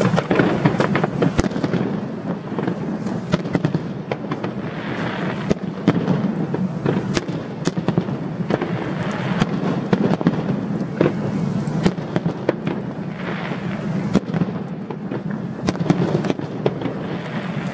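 Aerial fireworks display: a dense, continuous crackling with many sharp bangs and reports scattered throughout.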